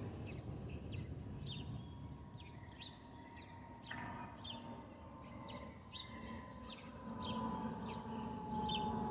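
Airbus A320's FOPP whistle, the tone made by air flowing over the underwing fuel over-pressure protector openings: a steady whistling tone that grows louder about four seconds in, with a second, slightly lower tone joining near the end. It sits over a low rumble, with short high chirps repeating about twice a second.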